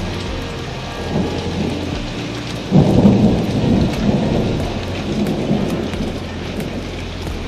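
Steady heavy rain, with a thunderclap breaking in sharply about three seconds in and rumbling away over the next few seconds.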